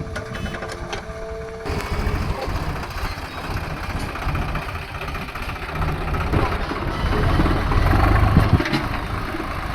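Heavy diesel machinery running at a mud-loading job. It opens with a steady tone and a few clicks, then cuts abruptly to engine noise that grows louder about seven seconds in.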